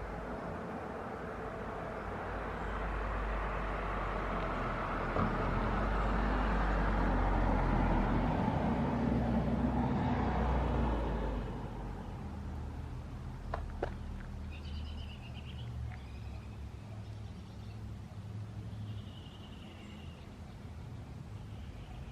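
A vehicle passes by, its rumble building, peaking and fading away over about ten seconds. Afterwards come a couple of sharp clicks and a few short bird chirps.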